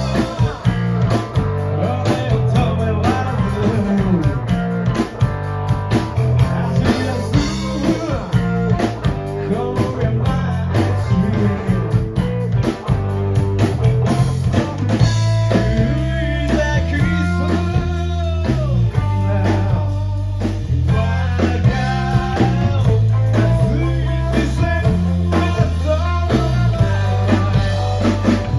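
Live rock band playing: electric guitar lines over bass and a drum kit.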